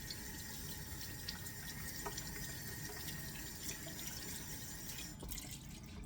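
Kitchen tap running water into a sink, a steady splashing hiss that stops about five seconds in.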